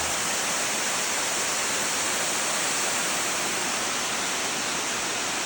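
Rushing water running steadily.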